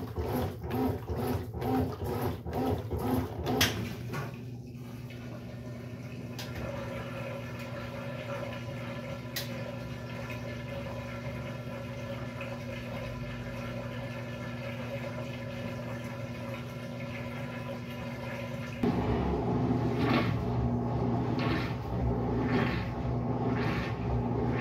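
Brastemp Sexto Sentido 8 kg washing machine running through its cycle, with water sounds. It pulses rhythmically for the first few seconds, settles into a steady hum, then grows louder and pulses again near the end.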